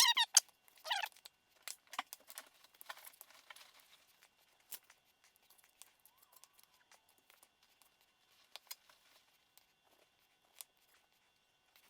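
Trimming fat off raw chicken breast: faint, scattered clicks, taps and small cutting sounds from the blade and board.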